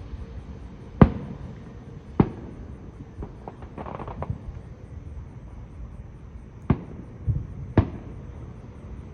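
Aerial fireworks shells bursting: four loud, sharp booms at irregular intervals, with smaller pops and a brief crackle in between.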